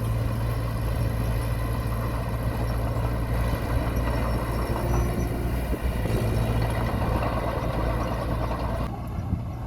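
Heavy diesel engine of earthmoving equipment running steadily, with a constant low hum.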